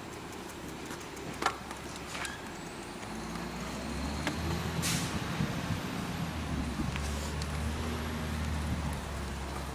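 Garbage truck's diesel engine running, growing louder about three seconds in, with a short hiss of air near the middle and a few sharp clicks early on.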